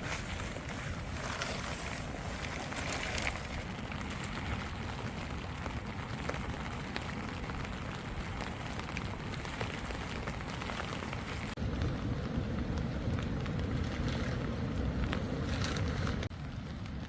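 Rain falling steadily on a tent, with many small drop clicks over a constant rushing hiss. About two thirds of the way through, the sound shifts abruptly to a deeper, louder rush with fewer drop clicks, then drops back shortly before the end.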